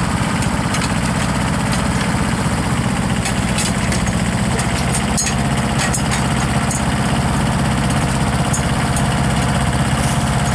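Engine idling steadily, a constant low drone with a few light clicks over it.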